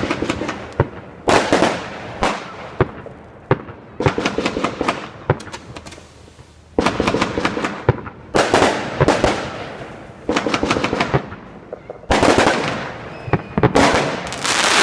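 Fireworks going off in about ten separate bursts, each a rapid cluster of sharp pops that quickly fades before the next one.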